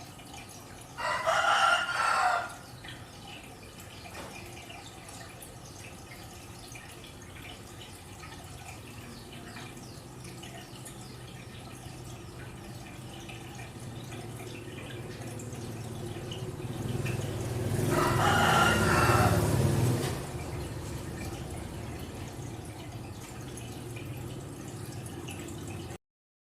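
Two loud pitched calls over a steady low background noise: a short one about a second in, and a longer one, about two and a half seconds, near the middle-to-late part.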